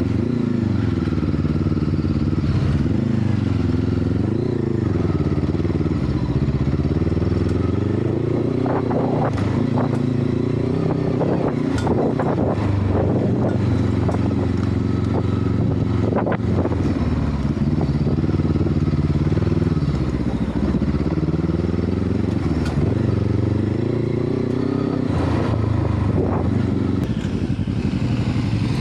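Hunter Maverick 500 motorcycle engine running just after starting. Its pitch rises and falls as the throttle is worked, with scattered clicks and clatter in the middle. The engine light is on, from an injection fault that the rider puts down to the O2 sensor, the throttle body or bad petrol.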